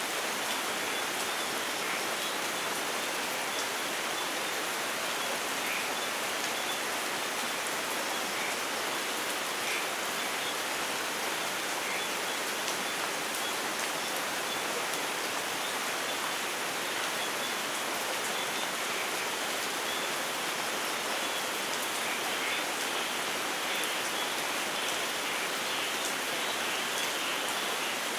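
Steady rain falling: an even hiss with scattered individual drop splashes, and no thunder.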